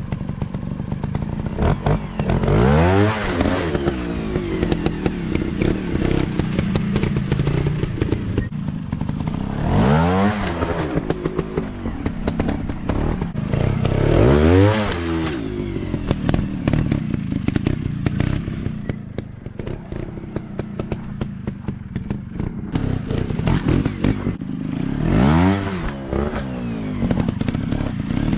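Small off-road motorcycle engines revving up and falling back again and again as the bikes are ridden over rough ground, with four big rises in pitch, and clatter and knocks from the bikes running throughout.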